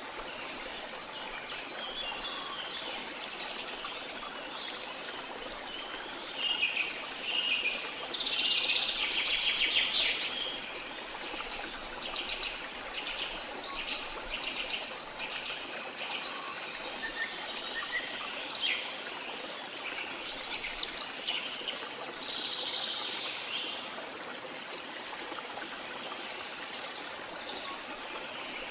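Steady rush of falling water from a waterfall, with birds singing and calling over it. A loud, rapid trilling song stands out about eight to ten seconds in, and shorter calls come and go after it.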